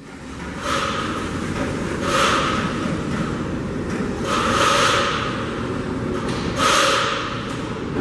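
Passenger train running by with a steady low rumble, broken by four loud rushing bursts of noise that each carry a faint squeal.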